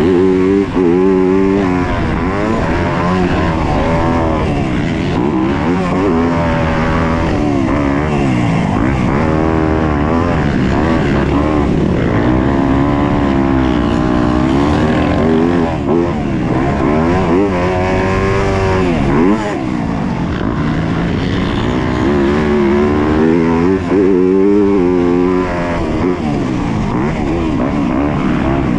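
Yamaha YZ250F four-stroke single-cylinder motocross engine at race speed, its pitch rising and falling again and again as the throttle is opened and closed.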